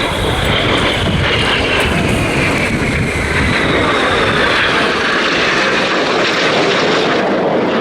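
Red Arrows BAE Hawk T1 jets passing low in a display run, their jet engine noise loud and steady with a whine that falls slowly in pitch as they go by.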